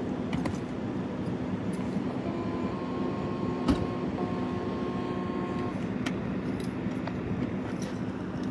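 Steady low vehicle rumble, with a faint steady tone for a few seconds in the middle and a single sharp click near the middle.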